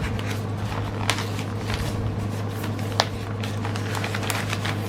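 Plastic packaging of a cross stitch kit crinkling and rustling as it is handled, with two sharper clicks, one about a second in and one about three seconds in, over a steady low hum.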